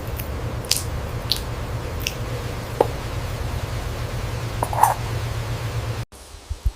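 Parrot chewing and biting, with a few short, crisp crunches over a steady low rumble. The sound cuts off abruptly about six seconds in.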